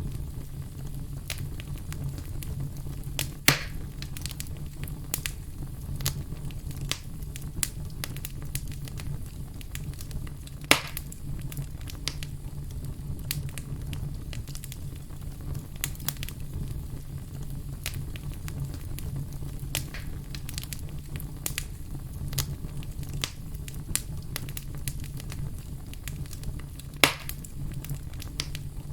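Wood fire burning in a fireplace: a steady low rumble with frequent small crackles and three louder pops, at about 3.5, 11 and 27 seconds.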